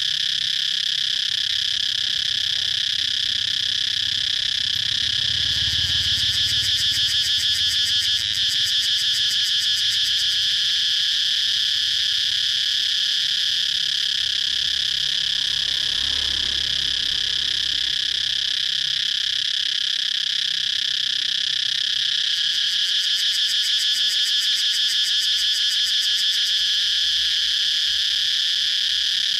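Cicadas calling in a continuous, loud, high-pitched buzzing chorus that twice swells into a rapid pulsing.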